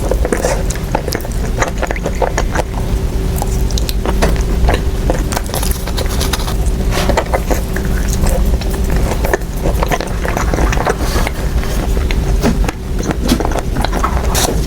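Close-miked eating sounds: irregular wet clicks and smacks of chewing mochi, over a steady low hum.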